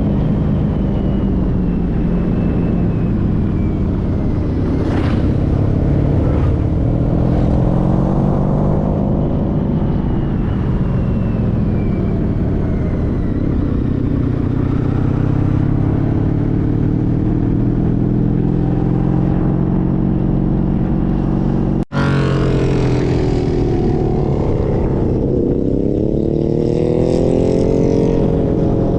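A 2014 Honda CTX1300's V4 engine running while the motorcycle is ridden, its pitch rising and falling with the throttle. The sound cuts out for an instant about three-quarters of the way through, then the engine note dips and climbs again.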